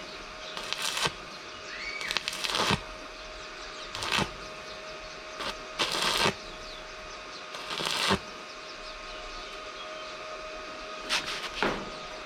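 A series of short rasping work strokes, about one every two seconds. Each grows louder and then stops sharply, over a steady faint tone.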